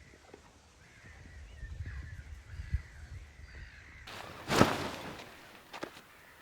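Bird calls outdoors, faint and wavering at first, then one loud, short call or burst about four and a half seconds in; a low rumble lies under the first part.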